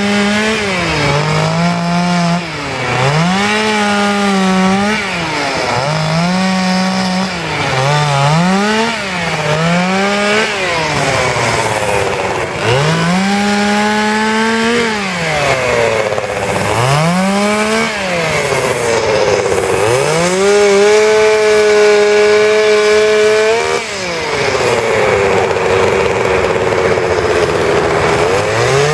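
Petrol chainsaw carving wood, revving up and falling back again and again, held at high revs for a few seconds about two-thirds of the way through, then running at a steadier lower speed near the end.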